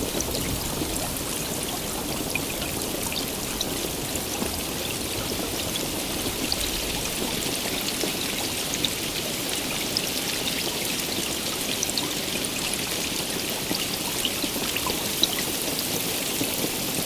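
Steady heavy rain: an even rush with many small, sharp drop ticks scattered through it.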